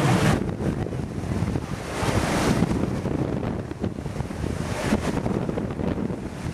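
Wind buffeting the microphone over the rush of water along a sailboat's hull as it runs under spinnaker, with a brief surge of water about two seconds in.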